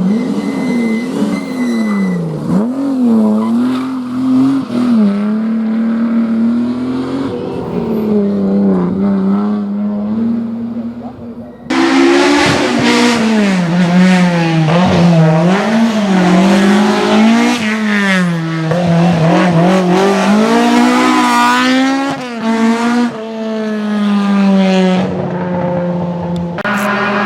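Historic rally cars at full effort on a special stage: the engine note rises and falls again and again as the cars rev, change gear and lift off for bends. About halfway through, a much louder car sounds close by.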